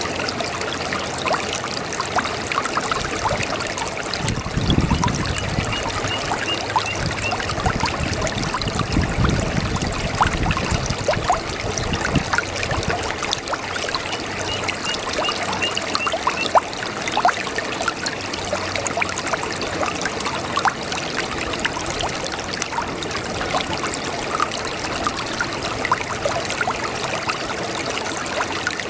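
Brook water babbling and trickling steadily over stones. Twice, a short run of rapid high chirps sounds faintly above it.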